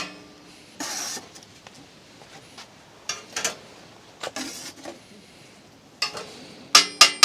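Tableware and metal utensils knocking and scraping during a meal, with a quick run of sharp ringing clinks near the end.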